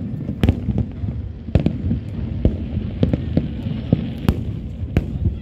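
Aerial fireworks bursting in a show: an irregular string of sharp bangs, about two a second, over a continuous low rumble.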